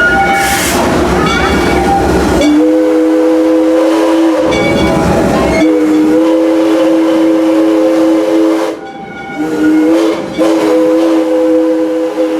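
Steam locomotive's chime whistle blowing several long blasts, each a steady chord of tones, over the rumble and clatter of the train running. The first couple of seconds hold only the running train.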